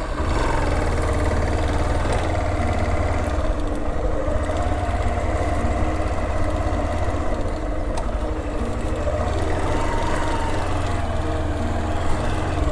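Hero XPulse 200 motorcycle's single-cylinder engine running on the move, its revs rising and falling a few times.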